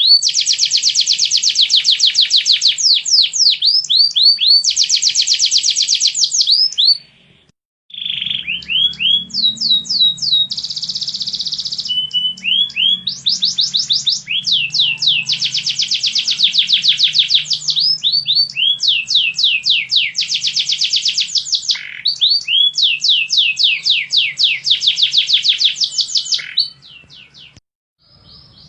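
Domestic canary singing: long runs of fast repeated notes, one rapid trill giving way to the next, with a short break about seven seconds in.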